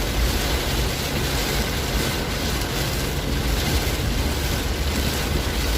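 Steady roar of a heavy rainstorm, with an even rushing hiss and a deep low rumble underneath.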